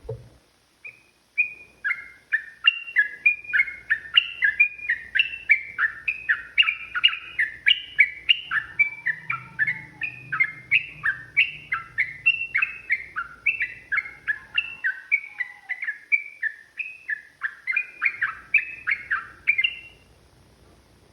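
Yellow-vented bulbul (trucukan) singing a long, fast run of short bubbling notes, about three a second, that stops about a second before the end.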